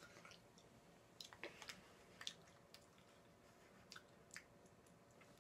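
Faint chewing of a sweet: soft, wet mouth clicks and smacks at irregular intervals.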